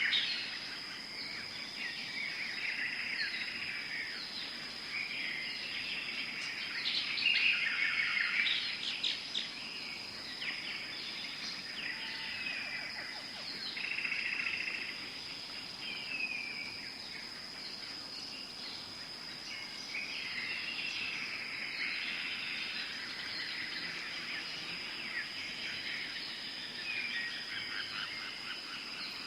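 Tropical forest ambience: a steady high insect drone with many birds chirping and calling over it, busiest about a third of the way in.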